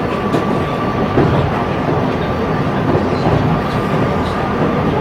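Train running, a steady rolling rumble with a thin, high steady whine over it and a few faint clicks.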